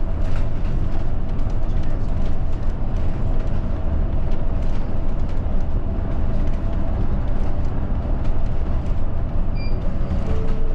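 Steady engine and road rumble heard from inside a moving route bus, with faint scattered rattles.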